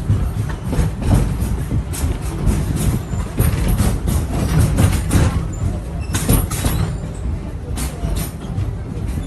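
Train cars rumbling with irregular clanks and knocks from the wheels and couplings, moving at low speed.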